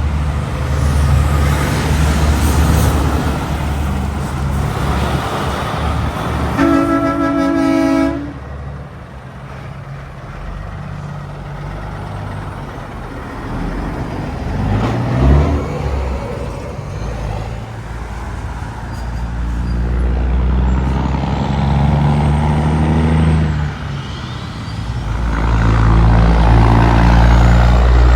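Heavy trucks passing on a highway, their engines and tyres rumbling, swelling and fading as each goes by. About seven seconds in, a truck sounds its horn in one steady blast of about a second and a half.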